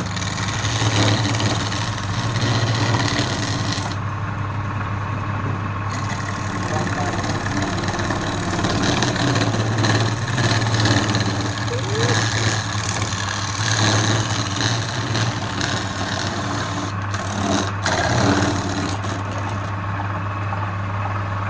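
Wood lathe motor running steadily with a constant low hum, under a rough, uneven noise of a turning tool cutting the spinning wood that swells and eases every second or two.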